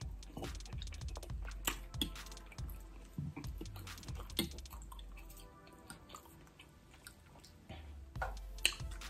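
Close-miked chewing and wet mouth smacks of someone eating soft, sauce-covered lobster ravioli, with a fork clicking and scraping against the plate.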